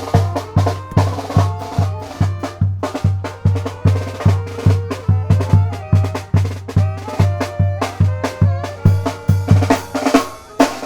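Tamborazo band playing: the tambora bass drum keeps a steady beat about two and a half times a second under snare strokes and a brass melody. The bass drum drops out briefly near the end.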